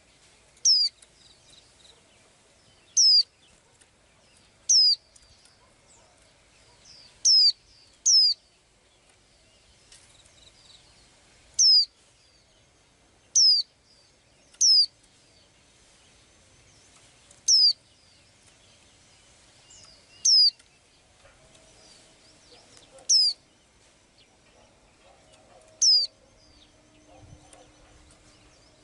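A small songbird repeating a short, high call that slides downward in pitch, about a dozen times at uneven intervals of one to three seconds.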